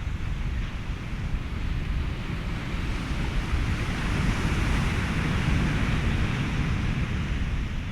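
Ocean waves and wind blended into a continuous rushing noise, with a wave swelling up about halfway through and easing away.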